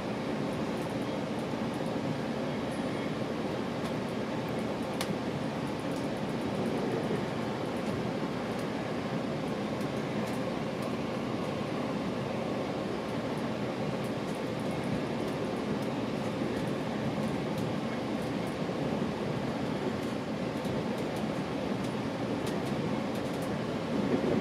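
Steady running noise inside a moving GO Transit commuter train coach: wheels on rail and the coach's own running sound, with faint light ticks scattered through.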